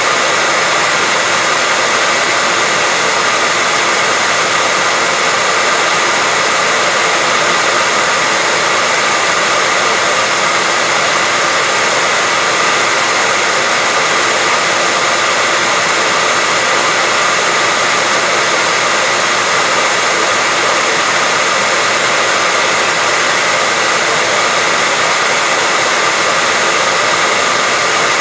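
Hair dryer running steadily: an even rushing whoosh of air with a faint high whine from the motor, unchanging throughout.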